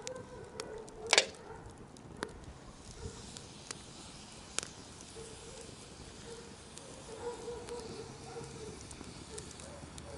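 Wood campfire crackling, with scattered sharp pops and one loud crack about a second in.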